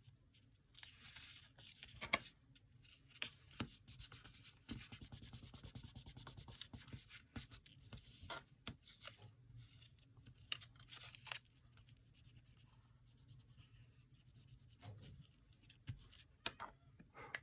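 Paper being handled at a craft desk: rustling, rubbing and tearing, with scattered light taps and clicks and a steady run of scratchy tearing or rubbing from about five seconds in.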